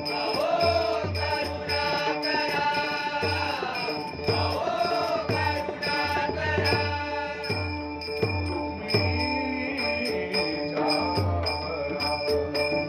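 Marathi devotional bhajan being performed: voices singing a bending melody over steady held tones, with a drum and small hand cymbals keeping a steady rhythm.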